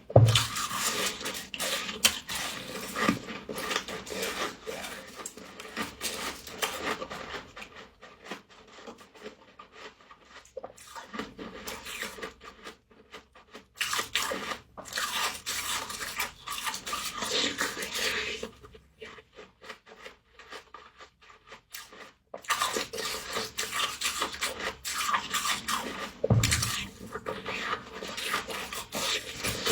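Close-up crunching of frost, a dense run of crisp crackles and grinding with a quieter lull about two-thirds of the way through.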